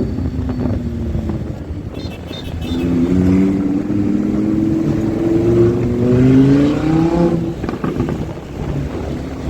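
Supercar engine accelerating, its pitch climbing steadily for about four seconds, then falling away about seven seconds in. A short run of exhaust crackles about two seconds in.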